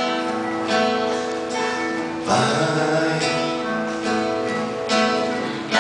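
Acoustic guitar strumming chords in a slow ballad accompaniment, a new chord struck about every three-quarters of a second, between sung lines of the song.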